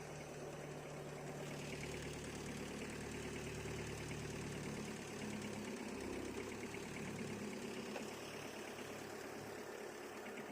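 VST Shakti mini tractor's diesel engine running steadily, its pitch shifting a little a couple of times.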